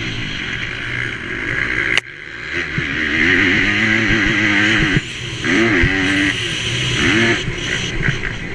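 MX2 motocross bike engine revving hard, its pitch climbing and falling with the throttle. The throttle is chopped sharply about two seconds in and again around five seconds in, over a steady hiss.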